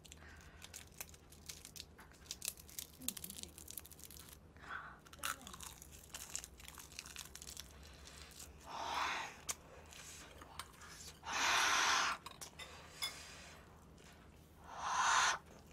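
Close-miked chewing of sauced boneless fried chicken and rice: soft crunching and small wet mouth clicks, broken by three short puffs of breath about nine, eleven and fifteen seconds in.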